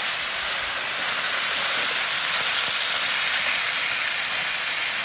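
Sliced onion, red pepper and garlic frying on browned beef in a hot steel pan over charcoal: a steady, even sizzle.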